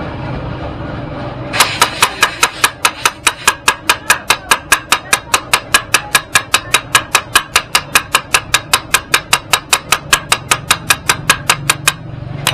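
Hammer striking metal in a fast, even rhythm of about five blows a second, for about ten seconds, during work on a scooter's rear wheel and tyre. The blows start about a second and a half in and stop shortly before the end, over a steady low hum.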